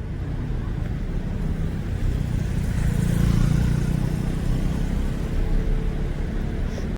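Road traffic running steadily, with a vehicle passing and growing louder around three seconds in.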